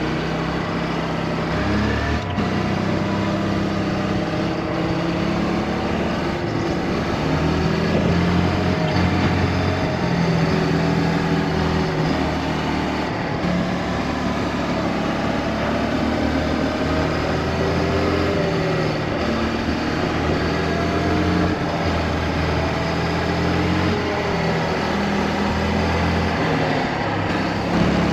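Motorcycle engine running while riding, its pitch rising and falling as the revs change, over steady wind noise.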